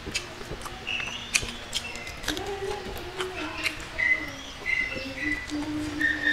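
Close-up eating sounds of hand-fed rice and dried fish being chewed: repeated wet smacks and clicks from the mouth. Short bird chirps and cooing calls sound in the background.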